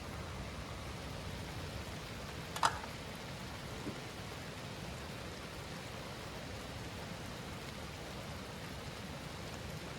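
Steady rain falling, a continuous even hiss, with one sharp tap about two and a half seconds in and a fainter one a second later.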